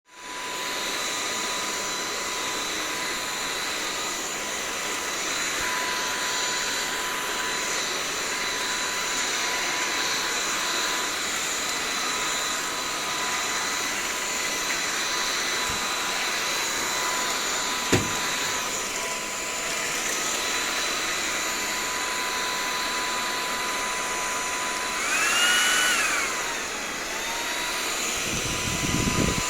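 Xiaomi G11 cordless stick vacuum running with a steady high-pitched motor whine. A sharp click comes about 18 seconds in, and near the end the pitch sweeps up and back down.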